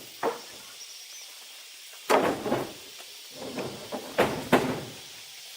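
A series of sharp knocks or strikes at uneven spacing: one near the start, a cluster a little after two seconds, then two strong ones between four and four and a half seconds.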